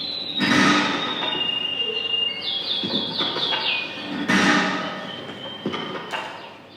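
Small birds chirping, with a quick run of about eight repeated chirps near the middle, over two loud noisy bursts, one about half a second in and one about four seconds in, each fading away over a second.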